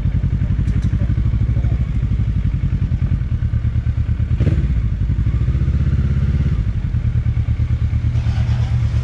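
Motorcycle engine running at low speed with a steady low throb, with a single knock about halfway through.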